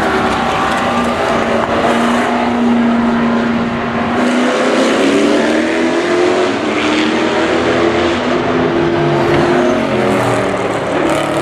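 V8 race car engines at speed on a circuit. The engine note holds steady, dips about four seconds in, then climbs again as the car accelerates, and a second engine note overlaps near the end.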